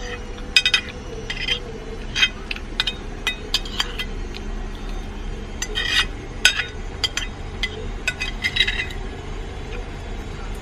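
A spoon clinking and scraping against a dish during a meal: irregular light chinks with a short ring, in small clusters.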